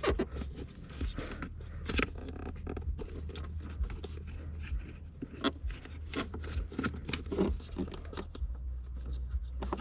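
Hands working plastic car trim and clips: an irregular string of small clicks, taps and scrapes over a steady low hum.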